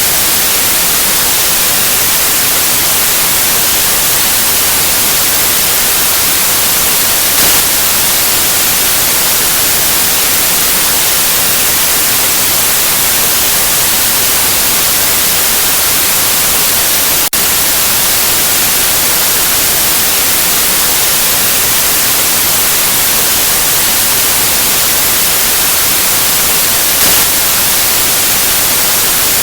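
Steady white noise: an even, loud hiss with no tones or rhythm, broken only by a momentary dip about two thirds of the way through.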